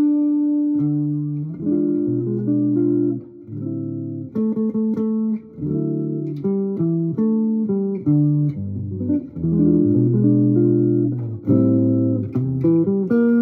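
Solo guitar playing a slow chord-melody: plucked chords over a moving bass line, each chord left to ring, with short breaks between phrases.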